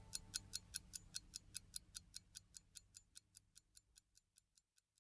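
Faint clock ticking, about five quick ticks a second, fading away and stopping about four seconds in.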